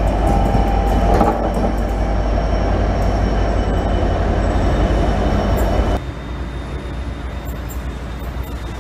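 Israel Railways diesel-electric locomotive passing close by at the head of double-deck coaches, engine running under steady wheel and rail rumble. About six seconds in the sound drops suddenly to a quieter, more distant train noise.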